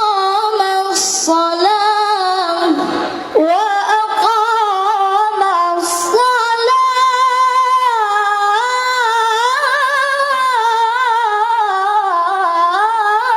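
A high female voice reciting the Quran in a melodic, ornamented tilawah style, holding long wavering notes, with a short break about three seconds in.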